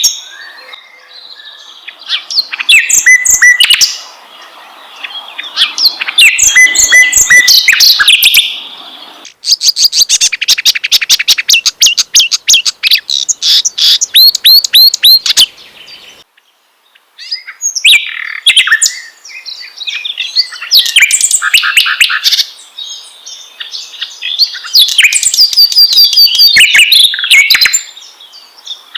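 Songs of the kerak basi (clamorous reed warbler) and the sikatan londo flycatcher, a played-back masteran recording. It comes in loud bursts of fast repeated whistles, rattling trills and harsh chattering phrases, with short pauses between them and one brief silence a little past halfway.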